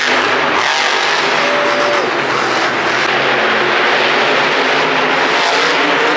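Monster truck engine running hard in an arena, a loud steady roar with a few short gliding squeals.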